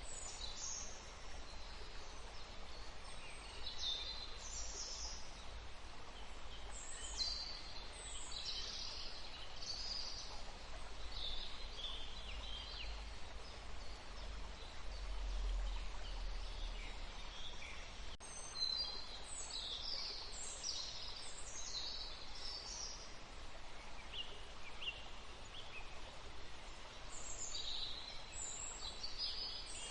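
Forest birdsong: several songbirds chirping and calling in short bursts of high notes, over a steady low rumble. There is a single sharp click about 18 seconds in.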